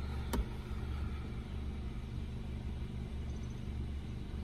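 Steady low rumble of a car idling, heard from inside the cabin, with one sharp click about a third of a second in.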